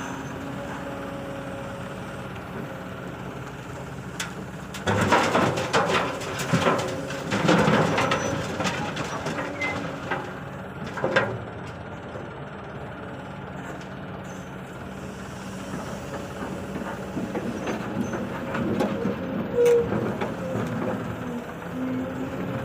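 Excavator diesel engine running steadily, with a loud rattling crash of soil and stones dropping into a dump truck's bed from about five seconds in for several seconds, and smaller knocks near the end.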